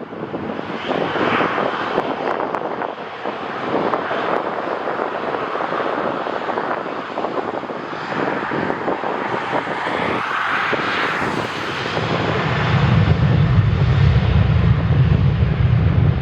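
Jet airliner engines running as an aircraft passes, a steady rushing roar that swells twice. In the last few seconds, gusts of strong wind buffet the microphone with a low rumble.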